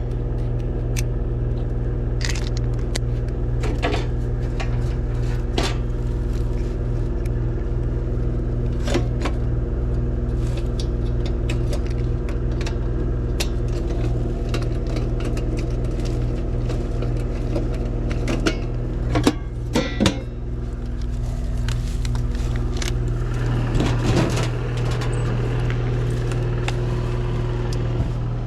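Rheem heat pump outdoor unit running with a steady electrical hum, its condenser fan now working again, with scattered clicks and taps of tools being handled around it.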